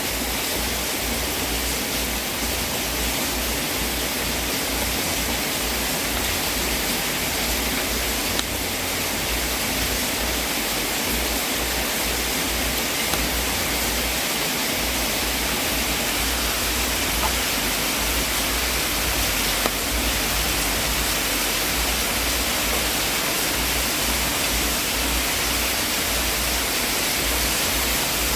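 Wood fire burning in a fireplace: a steady, even hiss with an occasional faint pop.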